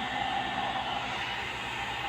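One-step hair dryer and styler (hot air brush) running with a steady whir of motor and blown air.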